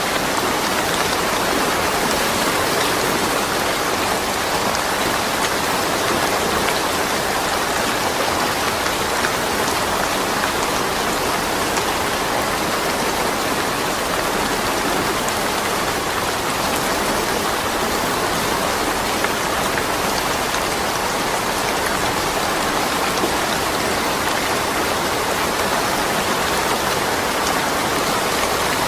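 Steady rain falling and pattering on surfaces, a constant even hiss with scattered drop ticks and no thunder.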